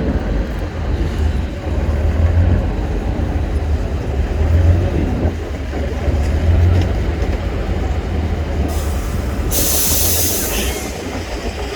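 Heavy trial truck's diesel engine rumbling deep and unevenly, swelling and easing every second or two as it works. A burst of hiss comes about ten seconds in.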